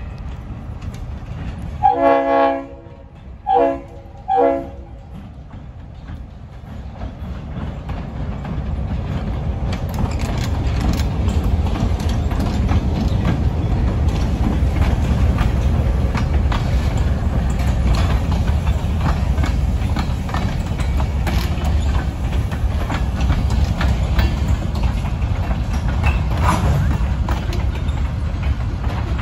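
Diesel freight locomotive sounding its horn about two seconds in, one longer blast followed by two short ones. Then the train's noise swells as the locomotive passes and a string of covered hopper cars rolls by, their wheels clicking over the rail joints.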